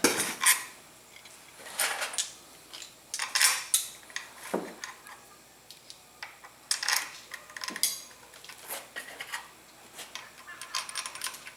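Hand ratchet with a 10 mm socket clicking in short bursts, with metal tools clinking, as bolts on a motorcycle engine cover are tightened one after another.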